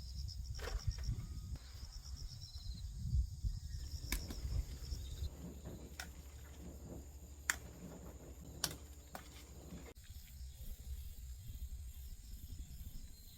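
Insects chirping in short pulsed trains, which stop about five seconds in, over a steady low rumble, with a few sharp clicks later on.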